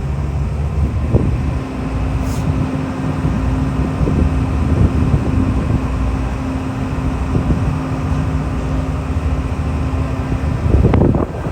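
Steady low engine rumble with a held droning hum, mixed with wind buffeting the microphone.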